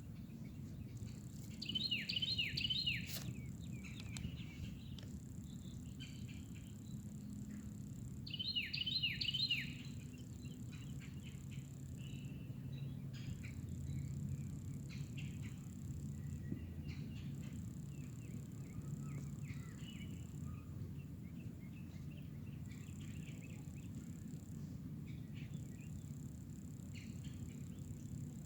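A songbird singing outdoors: two loud phrases of quick, repeated down-slurred notes about six seconds apart, with fainter scattered chirps after them. Underneath runs a steady low background rumble and a faint, steady high buzz.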